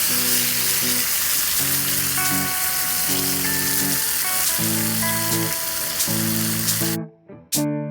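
Steady sizzling of food frying, over background music of held chords that change about once a second. The sizzling cuts off suddenly near the end, and a strummed guitar takes over.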